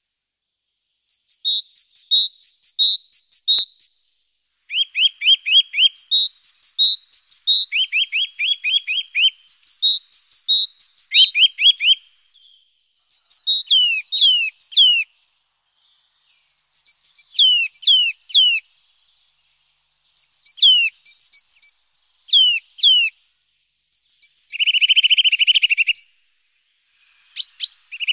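Small songbirds singing: bursts of quick repeated high two-note phrases, fast trills and downward-sweeping whistles, separated by short pauses.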